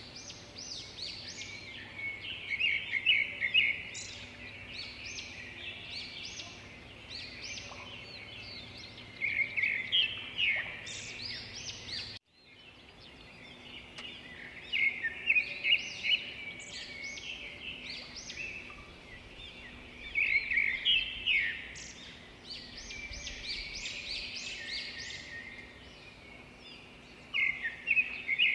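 Birdsong: many short, high chirps and trills in clusters, over a faint steady background. The sound cuts out briefly about twelve seconds in, then starts again.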